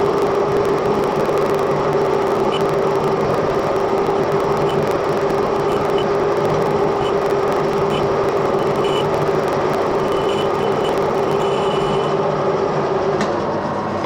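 Edgwick metal lathe running with a steady, loud mechanical hum and whine while a bush is machined in small cuts; the hum fades near the end.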